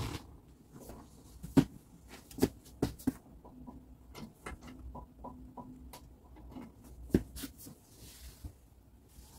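Irregular light clicks and taps with a few sharper knocks, the loudest about one and a half seconds in and again about seven seconds in: parts and tools being handled during a washing machine repair. A faint steady hum runs briefly in the middle.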